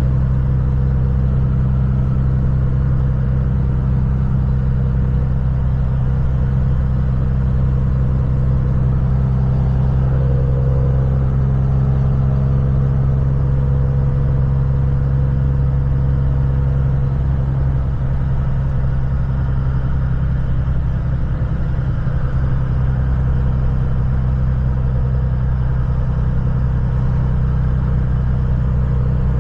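Heavy diesel truck engine running steadily, a constant low drone with no change in pitch.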